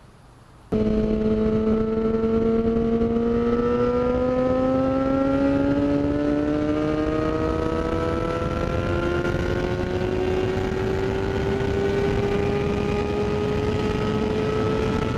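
Motorcycle engine pulling hard at speed, its pitch climbing slowly and steadily with no gear change, over heavy wind rush. It starts abruptly just under a second in.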